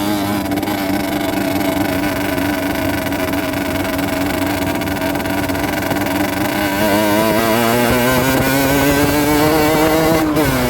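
Rieju Drac 50's 50cc two-stroke engine running while the bike is ridden, the revs wavering with the throttle. The pitch climbs slowly in the second half, then the revs drop sharply near the end.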